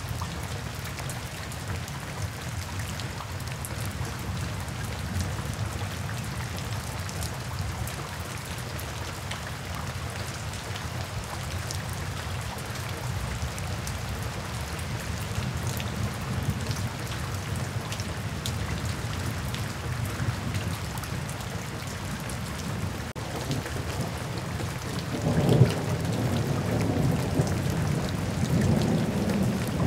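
Steady rain falling and splashing on a wet paved surface. A low rumble of thunder swells up about 25 seconds in and carries on to the end.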